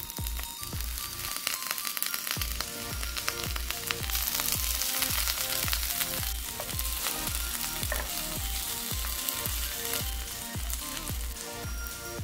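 Egg wrap frying in a nonstick pan, a steady sizzle that grows louder about four seconds in, over background music with a steady beat.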